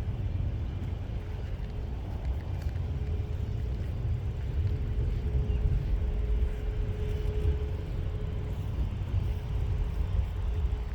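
Low, steady rumble with a faint, constant hum over it, as from jet aircraft engines running at a distance across an airfield.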